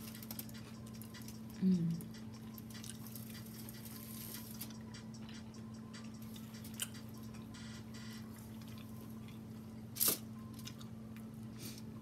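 Close-up eating sounds: chewing with small wet, squishy mouth and lip clicks as saucy seafood is eaten, over a steady low hum. A brief hummed 'mm' comes about two seconds in, and a sharper smack about ten seconds in.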